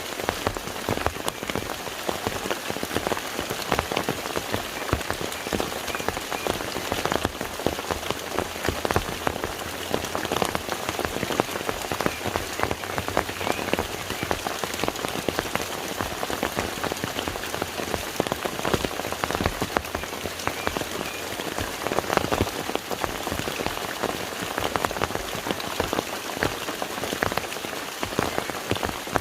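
Steady rain falling on water, a dense patter of many small drops.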